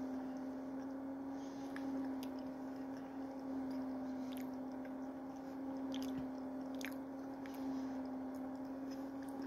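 A person chewing a soft cake donut hole with the mouth closed, faint wet mouth clicks every second or so, over a steady low hum.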